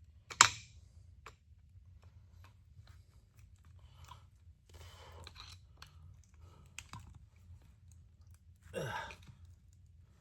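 Hand tools clicking, knocking and scraping on the aluminum gearbox housing of a John Deere 430 baler as its halves are worked apart. One sharp metallic knock comes about half a second in, and a short grunt with falling pitch comes near the end.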